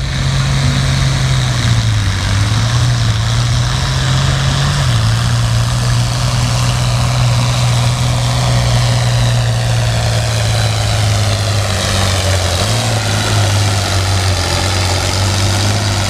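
International Harvester 966 pulling tractor's engine running hard under load as it drags the pulling sled, with heavy exhaust noise. Its pitch drops in steps early on as the engine lugs down, then rises again near the end.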